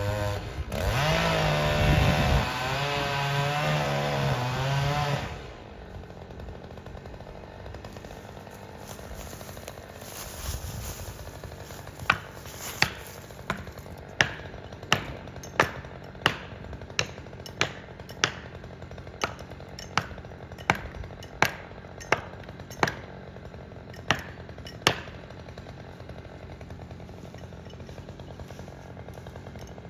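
Chainsaw running and cutting, its pitch wavering under load, then shutting off about five seconds in. After a pause comes a run of about eighteen sharp strikes, roughly one and a half a second.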